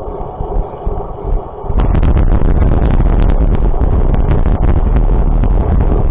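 Vehicle running with engine and road rumble, which jumps sharply louder just under two seconds in and stays loud, with fine clattering noise on top.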